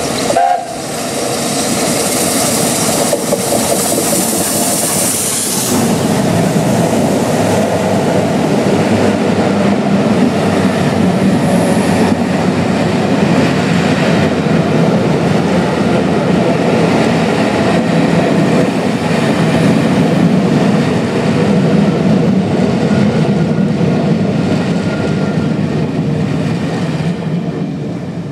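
Steam-hauled train passing close by at speed. A loud hiss in the first few seconds gives way to a steady rumble and clatter of the coaches' wheels on the rails, which fades away near the end.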